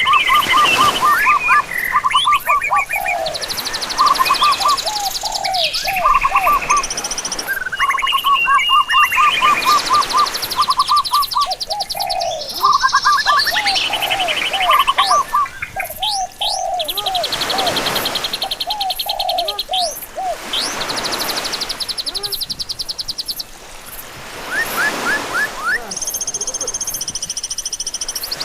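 Several birds chirping and singing at once: overlapping runs of quick repeated chirps and trills at different pitches, going on without a break.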